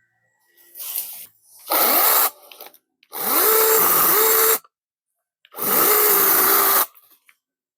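Chainsaw running in three bursts of the trigger, a short one then two longer ones; each starts with the motor winding up in pitch and then holds at full speed before cutting off.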